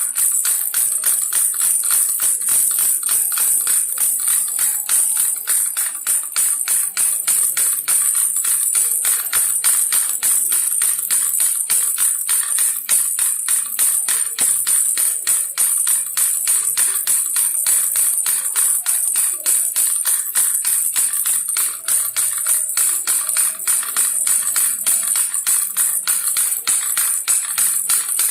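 Baby's toy rattle shaken fast and without pause, a continuous bright jingling rattle of rapid clicks.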